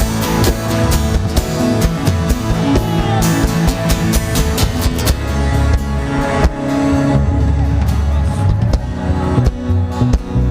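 Band music driven by a drum kit with frequent hits, over a steady bass and guitar; the drumming thins out after about seven seconds.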